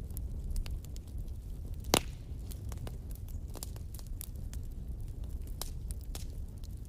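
Wood fire of burning logs crackling in a fireplace: scattered sharp pops and snaps over a low steady rumble of the flames, with one loud crack about two seconds in.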